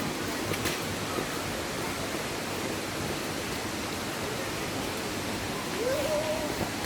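Steady rushing of flowing water from a forest waterfall stream, an even noise with no break. A faint short rising tone sounds briefly about six seconds in.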